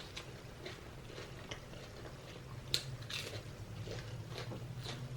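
A person chewing food close to the microphone, with irregular soft crunches and wet mouth clicks; one sharper crunch comes near the middle. A faint steady low hum sits underneath.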